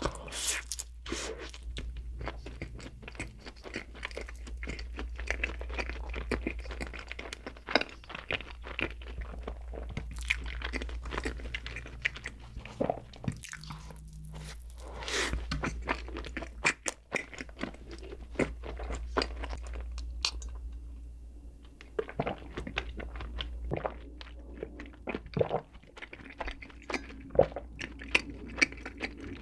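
Close-miked eating of donuts: steady chewing with many crisp crunching bites, pausing briefly twice, over a faint steady low hum.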